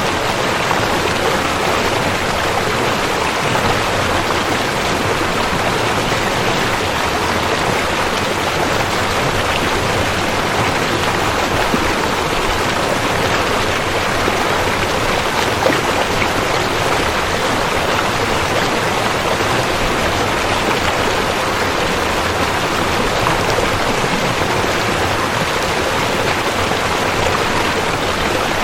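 A river flowing: a steady, even rush of water with no breaks.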